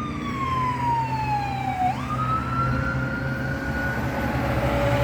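Emergency vehicle siren wailing: one long tone falls slowly for about two seconds, jumps back up and climbs gently, then cuts off about four seconds in, over a steady low engine rumble.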